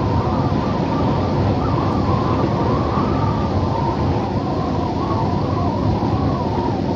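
Steady wind ambience: a low rushing rumble with a wavering whistle over it that rises and falls slowly.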